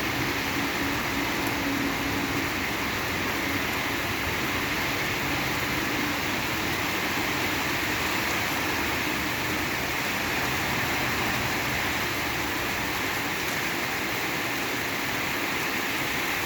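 Steady rain falling, an even hiss without breaks, with a faint low hum underneath for much of the time.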